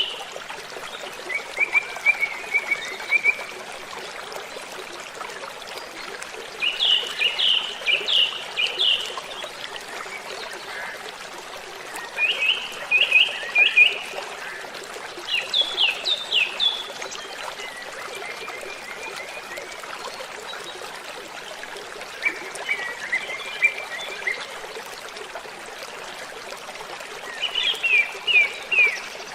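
Steady rushing water of a waterfall, with a songbird singing short bright phrases of quick, falling notes every few seconds and softer, lower trills in between.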